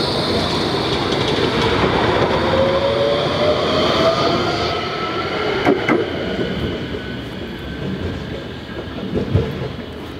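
Nottingham tram pulling away: the whine of its electric traction motors rises in pitch over the rumble of wheels on rails, then fades over the second half. There are a couple of sharp clicks about six seconds in.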